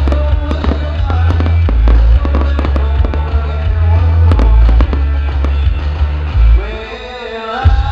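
Fireworks popping and crackling over loud music with a heavy bass line; the bass cuts out for about a second near the end.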